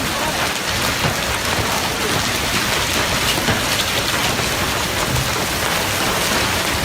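Loud, steady rain pouring down and pattering on surfaces, a dense even hiss with no break.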